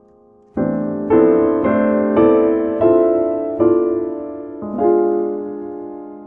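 Instrumental piano music: seven chords struck from about half a second in, coming about twice a second and then more slowly. The last chord is left to ring and fade.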